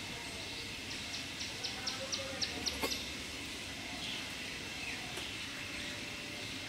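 A small bird calling a rapid series of short, high chirps, about four a second, for about two seconds before stopping, over a steady background hiss. A single sharp click comes near the end of the chirping.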